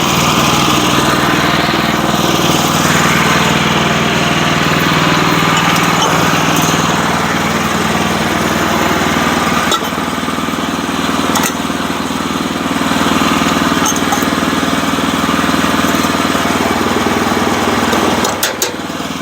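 Sawmill's small gasoline engine running steadily under load while sawing a log, dipping briefly near the end.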